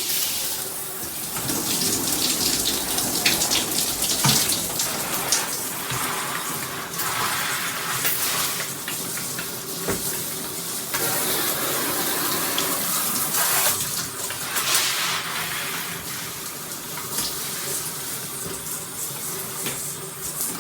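Shower head spraying water, a steady rush of falling water and spatter that swells and dips in loudness.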